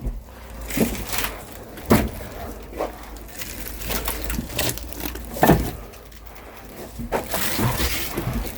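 Split firewood logs knocking and clattering against each other as they are handled, a string of irregular wooden knocks about every second or two.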